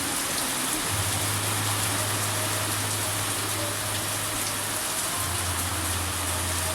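Steady rain falling, an even hiss of many drops, with a low steady hum underneath.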